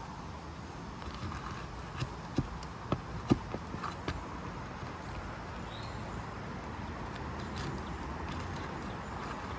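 A roofing tool knocking and prying against asphalt shingles and nail heads while nails are worked out of a shingle: about half a dozen sharp knocks between about two and four seconds in, then only a steady hiss.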